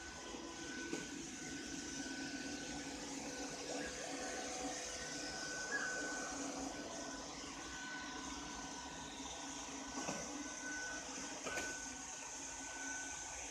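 Ropo Glass robot vacuum cleaner running steadily, a motor hum with a thin whine that comes and goes, broken by a few light knocks.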